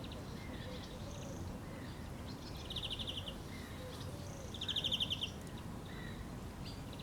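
Bird song: a bird gives a short, fast, rattling trill twice, about two seconds apart, amid a few softer chirps.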